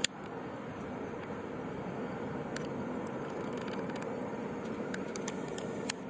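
Steady outdoor background noise, like a distant traffic hum, with a sharp click at the start and a few faint short ticks near the end.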